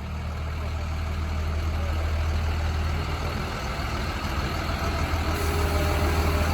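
Kenworth semi truck's diesel engine running with a steady low drone, growing louder as the truck approaches.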